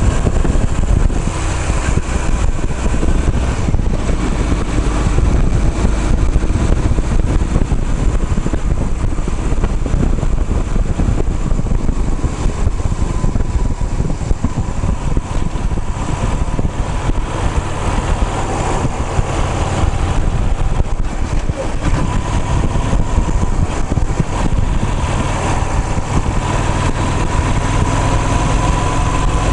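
A vehicle's engine and road noise running steadily, with a faint whine that drifts up and down in pitch.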